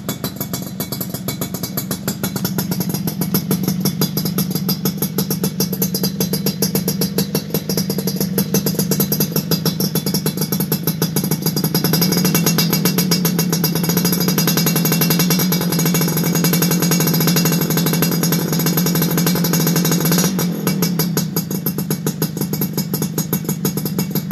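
Two-stroke underbone motorcycle engine running hard through a TNX racing exhaust, held at high revs as a rapid, rattling stream of firing pulses. It gets a little louder midway and eases back near the end.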